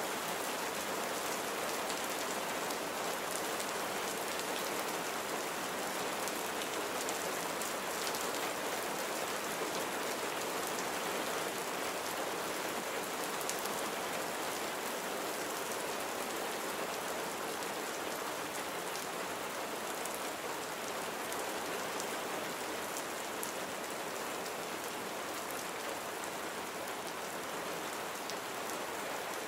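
Steady rain falling on a surface, an even hiss with many fine drop ticks and no thunder.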